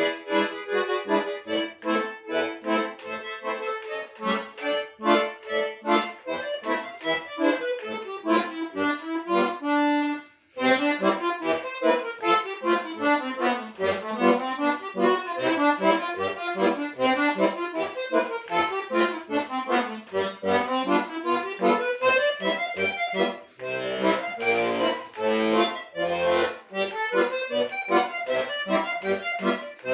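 Solo accordion playing a quick, flowing piece in running notes that climb and fall. It breaks off briefly about a third of the way through, and the low bass notes come in more strongly in the last third.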